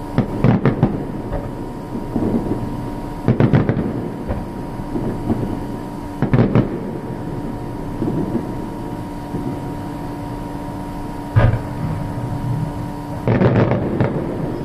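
Aerial fireworks shells bursting overhead: deep booms with rolling echoes, a few seconds apart, with a denser run of bursts near the end.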